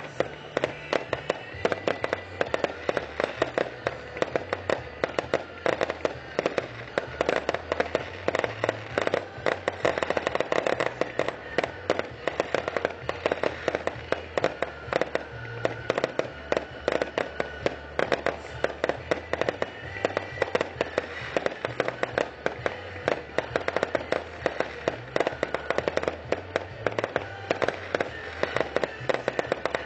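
Aerial fireworks bursting and crackling in a rapid, continuous string of sharp bangs, several a second, with music playing underneath.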